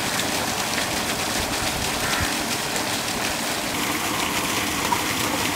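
Chicken sizzling in a large iron kadai over a wood fire: a steady, even frying hiss, with the ladle stirring it.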